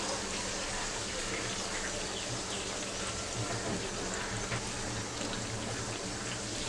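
Gram-flour-battered bread slices (bread pakoras) deep-frying in hot oil: a steady sizzle with small crackles.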